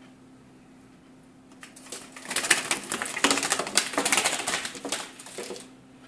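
A small bird trapped indoors flapping its wings in a frantic flurry: a dense run of rapid clattering flutters starting about a second and a half in and lasting about four seconds.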